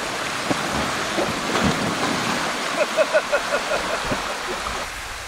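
Rushing water running down a natural rock waterslide, a steady hiss, with a few low thumps in the first two seconds and a quick run of about eight short, high squeaky notes about three seconds in.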